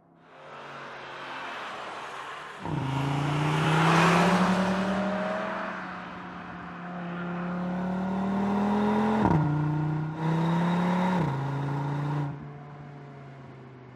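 The 2.5-litre turbocharged five-cylinder engine of an Audi RS 3 accelerating hard, its note climbing steadily. The pitch dips sharply twice, about nine and eleven seconds in, at gear changes, then the engine eases off near the end.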